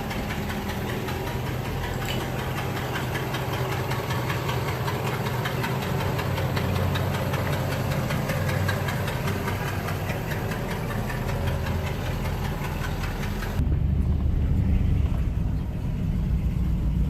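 1959 Cadillac DeVille's 6.4-litre V8 running at low speed, a steady engine note laced with a fast, even ticking. About 14 seconds in, the sound abruptly turns duller and deeper, with the bass louder.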